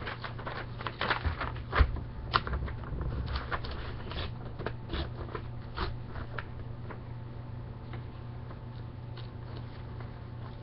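Printer paper being slowly torn by hand along a sharp crease: a run of small irregular crackles, thinning out after about six seconds.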